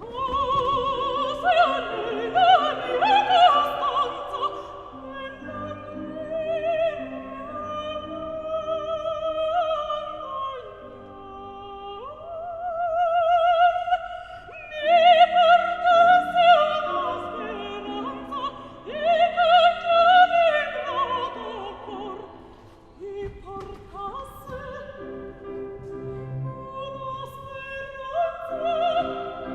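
Operatic singing in a high voice with wide vibrato, in swelling phrases over instrumental accompaniment.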